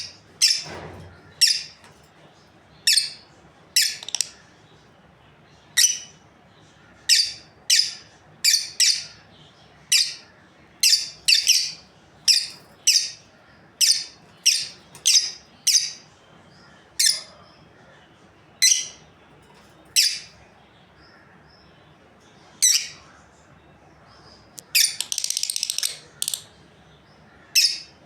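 Pair of lovebirds giving short, high-pitched chirps at irregular intervals, roughly one a second, with a longer run of continuous chattering near the end.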